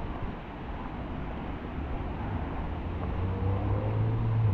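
Road traffic, with a motor vehicle's engine hum growing louder and rising slightly in pitch in the last second or so as it passes or pulls away.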